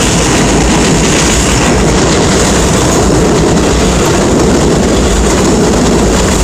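Heavy downpour: a steady, loud rush of rain with a low rumble underneath.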